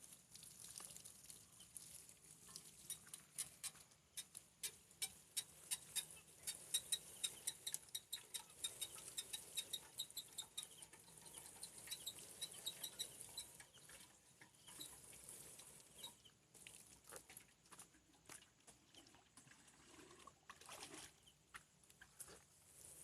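Water from watering pattering and splashing onto beds of young water spinach in many quick, irregular drops, thinning out in the second half. A run of rapid short high chirps sounds through the middle.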